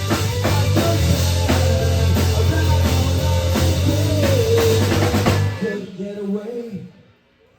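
Rock song with a driving drum kit and heavy bass, ending about five and a half seconds in. A last note rings on and dies away, and it goes nearly quiet just before the end.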